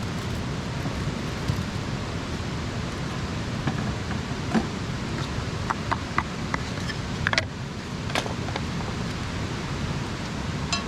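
Wood campfire burning: a steady hiss with a few scattered sharp pops and snaps, most of them clustered around the middle.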